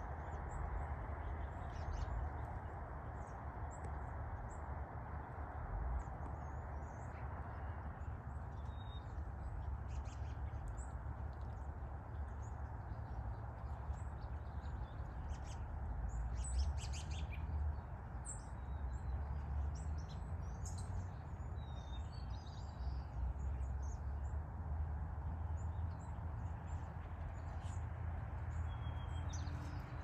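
Scattered short bird chirps and calls, a few at a time, over a steady low outdoor rumble.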